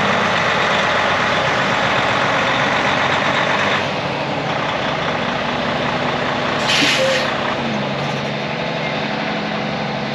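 Freightliner Cascadia's Detroit diesel engine idling steadily, with the overall sound easing a little about four seconds in. About seven seconds in, a short, sharp burst of air hiss comes from the truck's air brake system.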